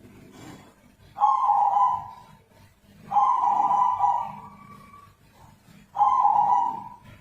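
Zebra dove (perkutut) giving three long, steady-pitched calls, each about a second, the second one slightly longer. This is the unusual call the bird is kept and filmed for.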